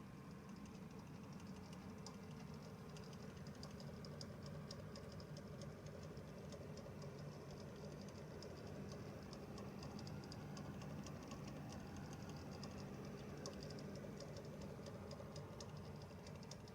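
A PC power-supply fan running with a steady low hum and a rapid, irregular ticking rattle on top: the clattering abnormal noise of a faulty PSU fan.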